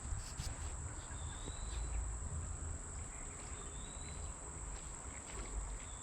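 Steady high-pitched insect chorus, with a short rising chirp repeating about every two and a half seconds and a low rumble underneath.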